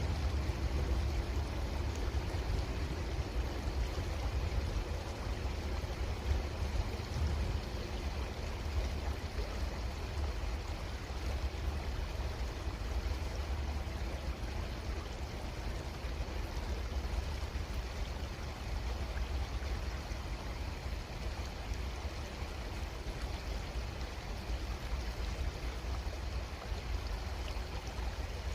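Creek water flowing steadily, with a steady low rumble underneath.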